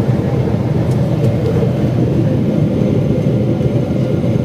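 Steady low rumble of a Boeing 777-300ER's GE90 engines and airflow, heard from inside the passenger cabin.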